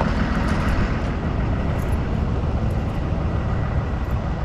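Heavy diesel truck engine idling with a steady low rumble.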